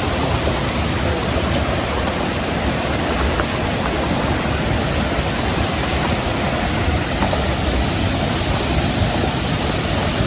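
Steady rush of water pouring over a partly frozen waterfall.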